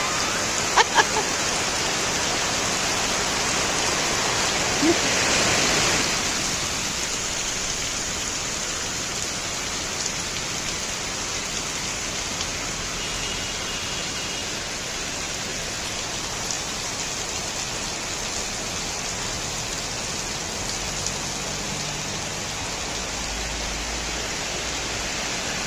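Steady rain falling, an even hiss that is a little louder for the first six seconds and then settles.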